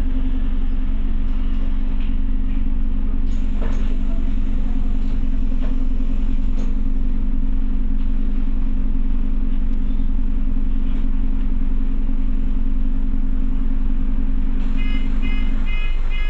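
Scania OmniCity bus running, heard from inside the saloon: a steady low engine rumble with a steady hum. The hum stops shortly before the end, as a run of short, high electronic beeps begins, about two or three a second.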